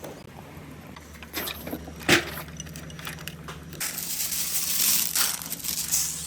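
Marbles clacking along a handmade marble run: scattered sharp knocks, the loudest about two seconds in. From about four seconds in a loud rushing hiss sets in.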